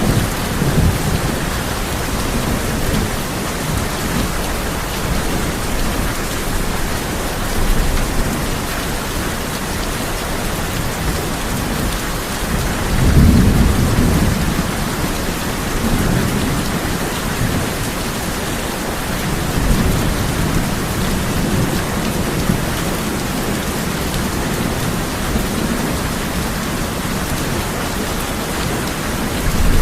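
Steady heavy rain drumming on a tin roof, with rolls of thunder rumbling low underneath; the loudest roll comes about midway, with weaker rumbles near the start and in the second half.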